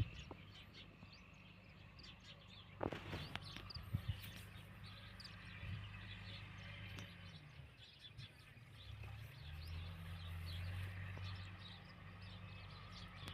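A faint, steady low engine hum that drops away about two-thirds of the way through and comes back stronger, with birds chirping over it.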